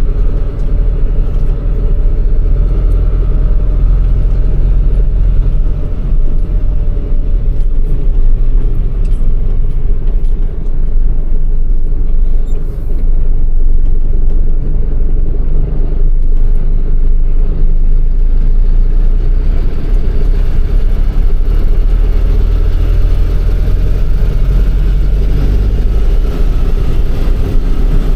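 MAN truck's diesel engine running with a loud, steady deep rumble and a faint engine hum that rises and falls a little in pitch.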